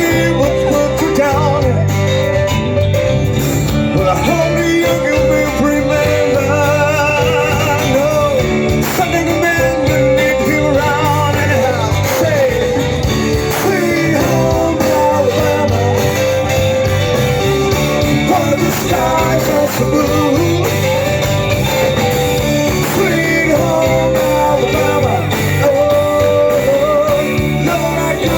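Live band playing a rock song through a PA, with a singer and electric guitar over bass and drums.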